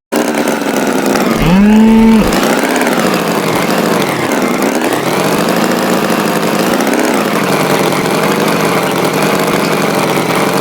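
Tractor engine running steadily, its pitch wavering up and down as it revs gently. About two seconds in, a short, loud tone rises and then holds briefly over it.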